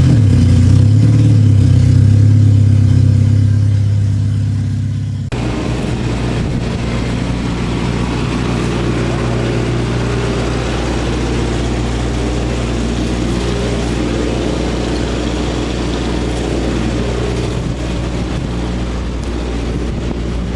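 Small engines of kids' mini off-road race trucks running fairly steadily. About five seconds in, the sound changes abruptly to a noisier engine sound.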